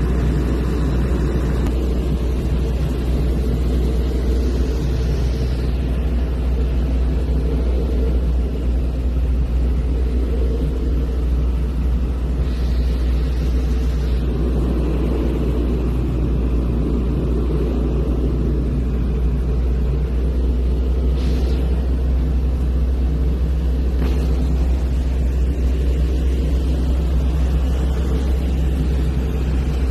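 Small propeller airplane's engine droning steadily, heard from inside the cabin, a deep constant drone with no change in pitch or loudness.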